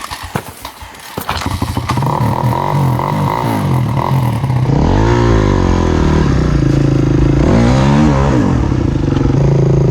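Carbureted dirt bike engine catching after a hard start: clattering at first, then running, revved in two rising-and-falling blips, and settling to a steady run near the end.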